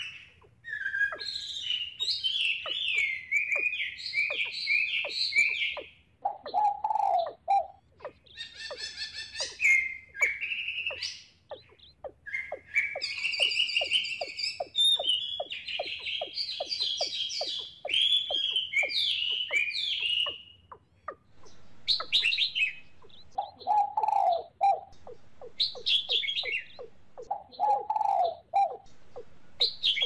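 Birds calling: long runs of loud, ringing chirps, with a lower call three times and quick clicking notes in between.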